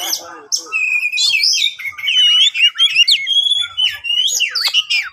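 Oriental magpie-robin (kacer) singing a rapid, varied stream of whistles, chirps and sweeping rising and falling notes. This is its agitated, aggressive challenge song.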